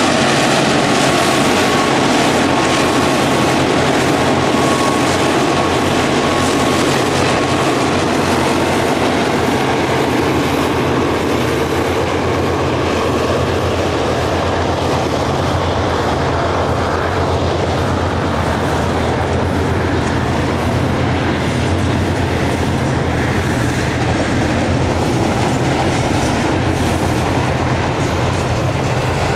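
Tasrail DQ class diesel-electric locomotives passing with a freight train, their engines running, followed by container wagons rolling by with a steady clickety-clack of wheels over the rail joints. A thin steady whine fades out about ten seconds in.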